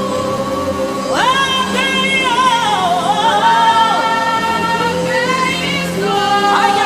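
A woman singing a wordless gospel worship melody in long held notes with sweeping slides up and down in pitch, over a steady sustained keyboard-like accompaniment.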